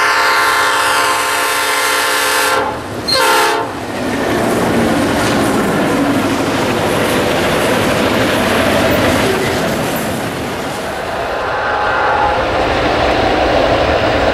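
Diesel locomotive horn sounding a long blast, then a short one about three seconds in. After it the locomotives and train run past loudly with wheels clattering over the rail joints.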